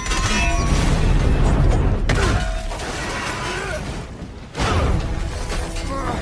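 Film action sound effects under a music score: loud crashing impacts with shattering debris, hitting at the start, again about two seconds in, and again about four and a half seconds in.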